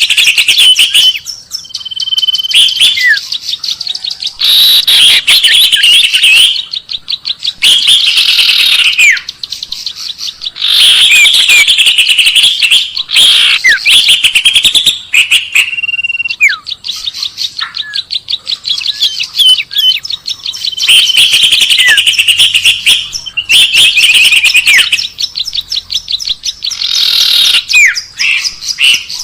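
Birdsong lure recording: loud, rapid high-pitched chirping and trilling in phrases of a few seconds, with short pauses between them and quick downward-sweeping notes mixed in.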